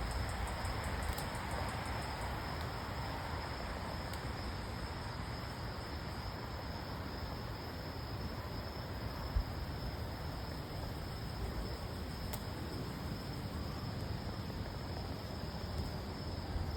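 Steady outdoor background: a constant high thin hum over a low rumble, with one short thump about nine seconds in.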